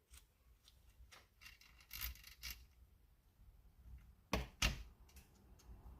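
Small metal parts of a chainsaw's chain tensioner clicking and ticking as they are handled and turned by hand. Two sharp knocks come a little past four seconds in.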